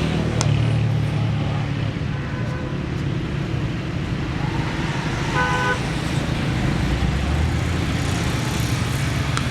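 Steady low rumble of road traffic, with a short horn toot about five and a half seconds in.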